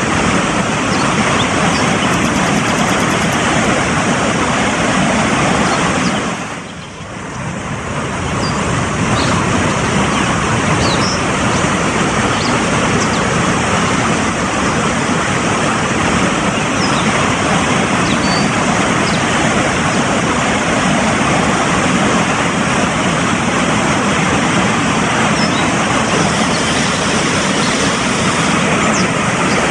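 Fast-flowing mountain stream rushing in a loud, steady wash of water. About six seconds in, it briefly dips quieter, then swells back over a second or two.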